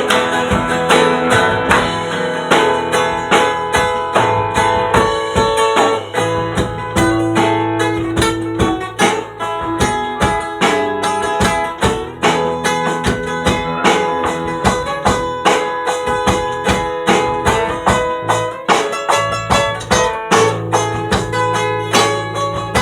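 Folk-rock band playing an instrumental passage without vocals: strummed guitar over bass and drums, with a steady beat.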